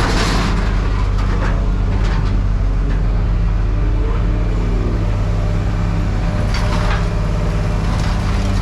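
An engine or motor-driven machine running steadily at a constant low pitch, with a few faint knocks.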